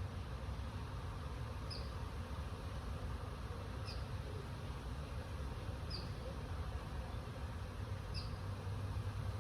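Steady wind with a low rumble, and a short high chirp repeating about every two seconds, four times.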